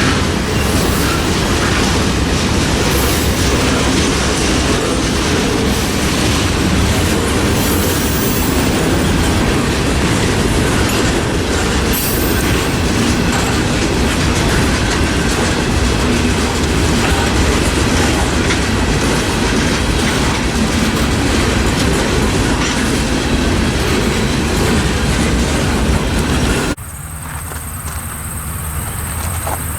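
Loud freight train rolling past, its wheels clattering over the rail joints with occasional high-pitched squeals. The sound cuts off abruptly near the end to something much quieter.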